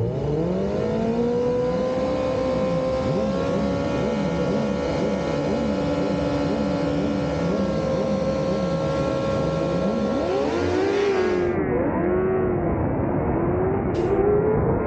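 600cc superbike engine at racing revs. It climbs in pitch at the start and then holds a high, steady note. About ten seconds in, the pitch swings down and up several times in quick succession, as in downshifts and blips, before rising again.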